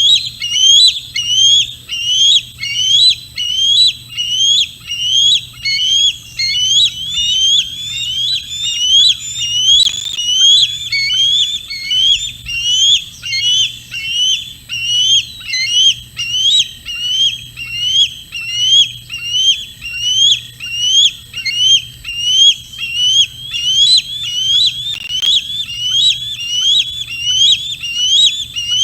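A bird calling over and over: a high, upward-slurred note repeated about one and a half times a second, without a break.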